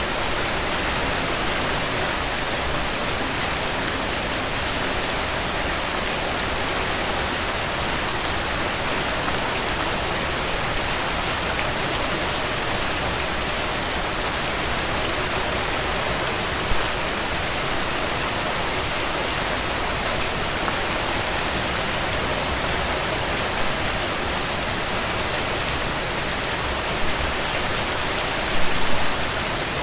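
Steady rain falling on a tent, with a few brief louder pops, the strongest cluster near the end.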